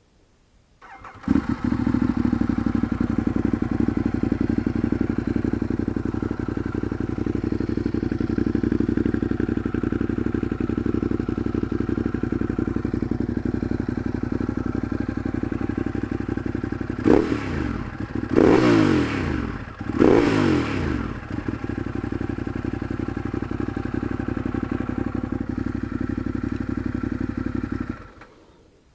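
Ducati Monster 821's L-twin engine breathing through a Termignoni race exhaust with dB killers fitted. It starts about a second in and idles steadily, is revved three times in quick succession past the middle, then is switched off shortly before the end.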